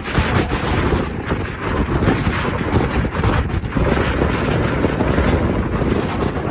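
Blizzard wind at near-hurricane strength blowing across the microphone, a loud, gusting rush of noise that buffets unevenly.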